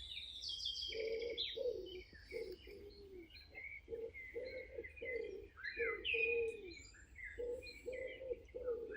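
Several wild birds calling. One repeats short low hooting notes, about two a second, from about a second in, under scattered higher chirps and trills from small songbirds.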